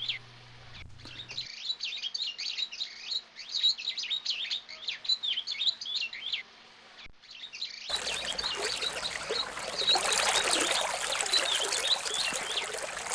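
Small birds chirping and singing, a quick run of short up-and-down chirps. About eight seconds in the sound changes abruptly to a denser chorus of chirps over a steady rushing background noise.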